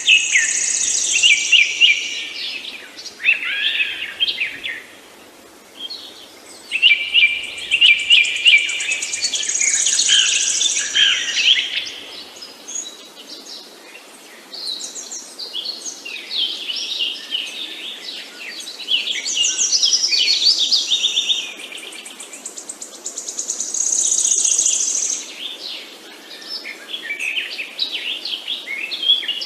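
Songbirds singing and chirping, several overlapping high, rapid phrases coming in bursts of a few seconds with brief lulls between them, over a faint steady background hiss.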